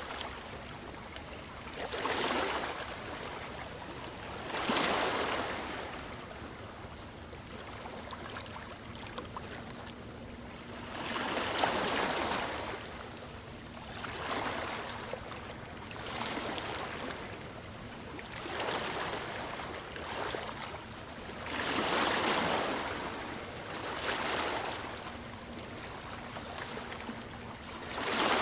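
Waves washing onto a shore: repeated swells of surf that build and fall away every two to five seconds, over a steady background wash of water.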